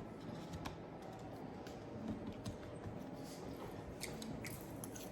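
Quiet eating sounds: faint, scattered clicks and taps of a fork on a plate while a piece of pickled pig skin is eaten.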